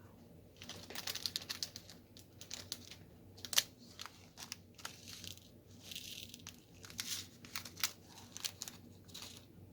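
Small plastic bag of diamond-painting drills being handled: crinkling and rustling in irregular short bursts, with scattered light clicks.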